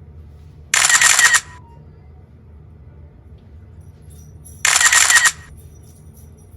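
Stiff-bristled hair brush dragged through hair in strokes, each a short, loud, scratchy rasp. There are two strokes: one about a second in and one near the end.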